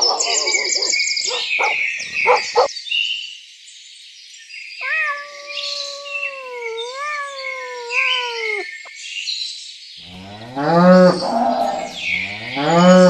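A cow mooing twice near the end, each moo rising in pitch, over steady high bird chirping. Earlier there is one long, wavering, higher-pitched animal call.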